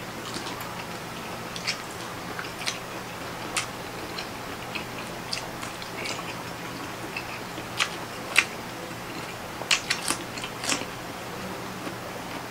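Close-up chewing with irregular wet mouth clicks and lip smacks as two people eat by hand, with a few louder smacks in the second half.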